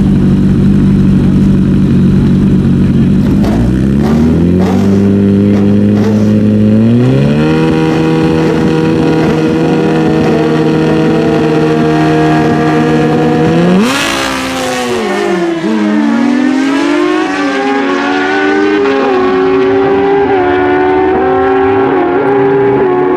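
Naturally aspirated stock sportbike drag-racing engines revving. The pitch steps up twice and holds at high rpm. About 14 s in a sudden loud blast is followed by the engine notes sweeping down and back up as the bikes run.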